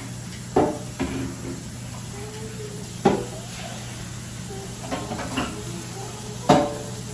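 Kitchen clatter: about six short, sharp knocks of utensils and cookware against one another, the loudest near the end.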